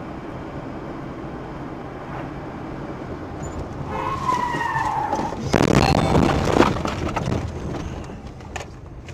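Car engine and road noise from a dashcam. About four seconds in, tyres squeal in a falling tone. This is followed by a loud, rough burst of skidding or scraping noise lasting about a second and a half, which then fades.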